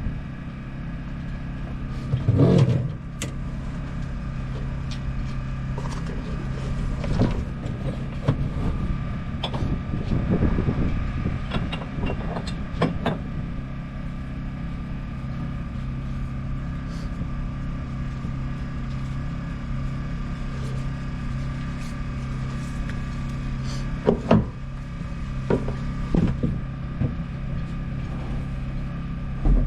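Steady machine hum with scattered clicks and knocks. The loudest knock comes about two seconds in, and a few more come near the end.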